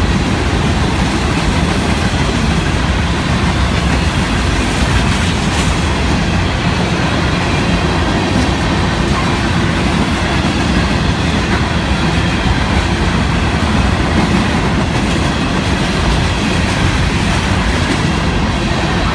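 Freight cars of a long Florida East Coast Railway freight train rolling past close by: a steady, loud rumble of steel wheels on rail with rhythmic clickety-clack at the rail joints.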